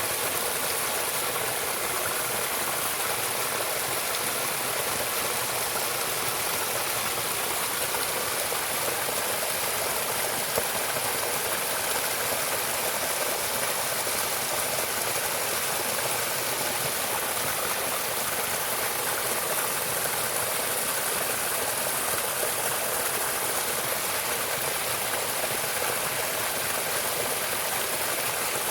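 A stream of water running, a steady rushing that does not change.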